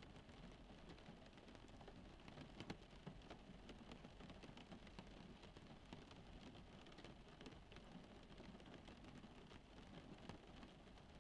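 Rain falling on a car's roof and windows, heard from inside the car: a faint, steady patter with scattered single drops ticking against it.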